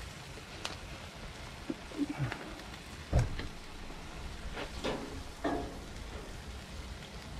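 Ground beef and water sizzling steadily in a cast iron skillet, with a wooden spoon scraping and knocking against the pan a few times; the loudest knock comes about three seconds in.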